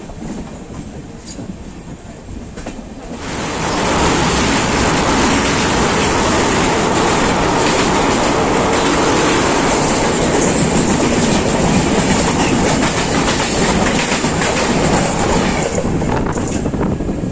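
Train running on rails, wheels clacking over the rail joints, with a little wheel squeal. The noise rises sharply about three seconds in and eases off near the end.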